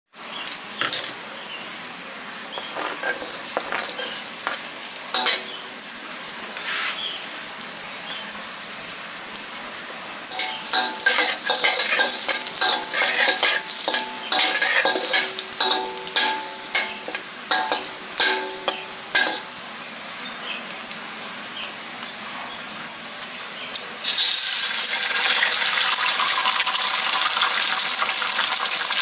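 Oil sizzling in a steel wok as diced chicken nuggets fry, with a metal spatula scraping and clinking against the wok for several seconds in the middle. Late on, the sizzle jumps suddenly louder and stays up as an egg goes into the hot oil.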